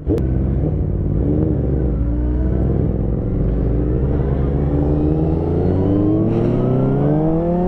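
Motorcycle engine under hard acceleration for a wheelie. Its pitch dips briefly about a second in, then climbs steadily for several seconds.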